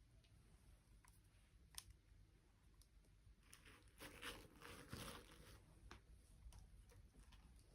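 Faint handling noises: a few scattered small clicks and a brief crinkling rustle about four to five seconds in, as of plastic toys or packaging being handled.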